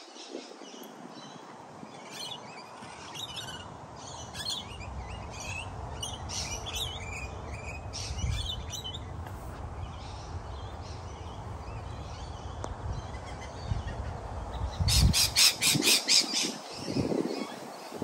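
Wild birds calling, with scattered short chirps and calls over a low rumble. Near the end a bird gives a loud run of about eight harsh squawks in quick succession.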